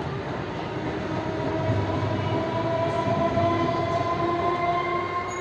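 Electric suburban local train running past the platform: a continuous rumble of wheels on rails, loudest in the middle. A steady high whine comes in over the rumble about two seconds in.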